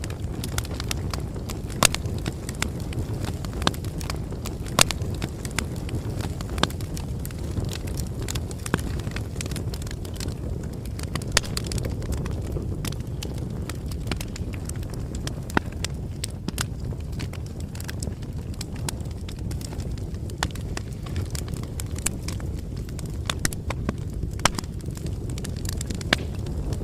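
Bonfire burning: a steady low rumble of flames with frequent, irregular sharp crackles and pops of burning wood.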